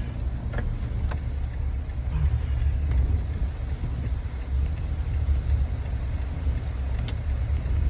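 Steady low rumble of a car driving on a wet road in heavy rain, heard from inside the cabin, with a few faint clicks.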